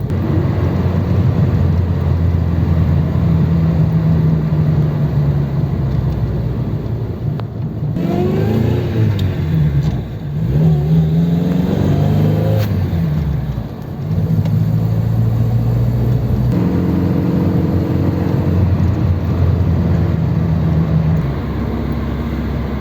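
1955 Ford 100E's side-valve four-cylinder engine heard from inside the cabin, running steadily under way. Between about eight and fourteen seconds in its pitch rises and falls as the car pulls away through the gears, with brief dips at the changes, then it settles into steady running.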